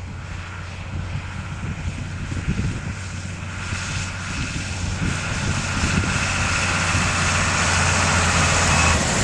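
Tractor engine running steadily, growing louder over the whole stretch, with a thin steady whine above the low engine hum.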